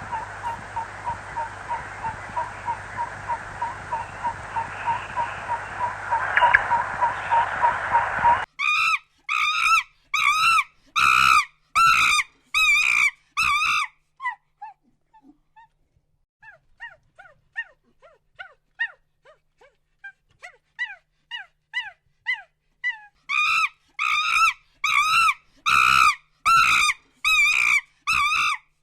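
An animal's repeated high-pitched calls. Loud cries come about once a second, with a run of softer short chirps between them. For the first eight seconds there is a different, noisier recording with fast, evenly spaced pips.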